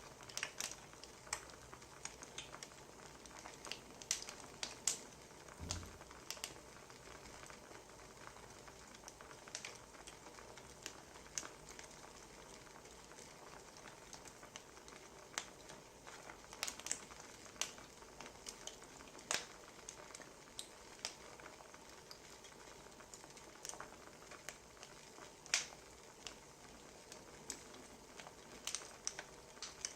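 Wood fire crackling faintly: a low steady hiss broken by irregular sharp pops and snaps, with one soft low thud about six seconds in.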